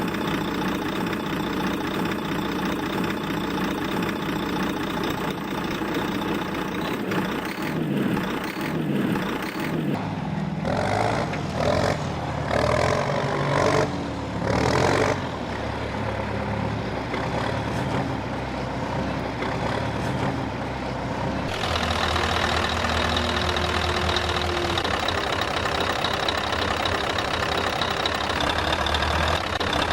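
Truck-like engine sounds running and idling for the model trucks and tractors, changing abruptly about ten seconds in and again a little past twenty seconds.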